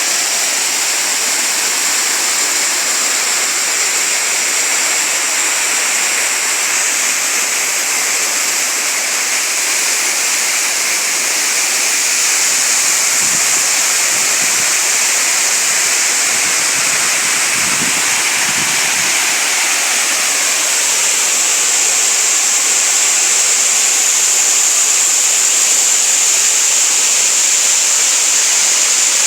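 Waterfall: water falling and running over rocks in a steady, even rush, with a few faint low thumps in the middle.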